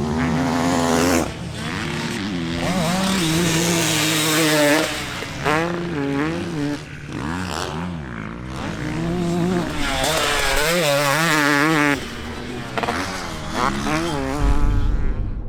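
Motocross bike engines revving hard, the pitch climbing and falling again and again with throttle and gear changes, with sudden cuts when the throttle is chopped. At times two bikes are heard at once.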